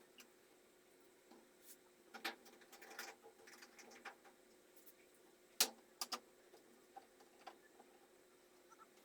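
Scattered light clicks and taps, with a sharper knock about five and a half seconds in, over faint room tone.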